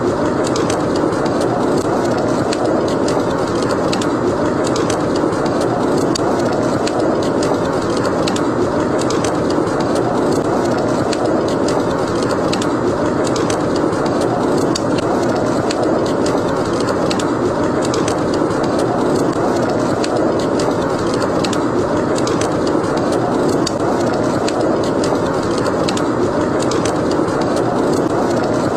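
Steady snowstorm wind noise, with a wood fire crackling over it in many small, sharp pops several times a second.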